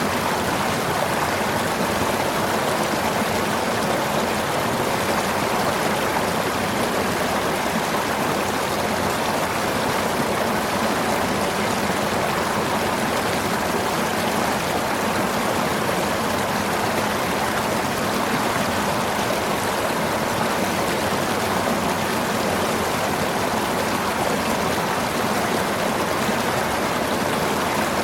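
Steady rain: an even, unchanging hiss of falling water.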